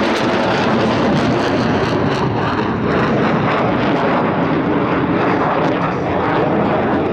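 Loud, steady jet noise from the Blue Angels' F/A-18 Hornets, twin-engine fighter jets, flying their brake turns.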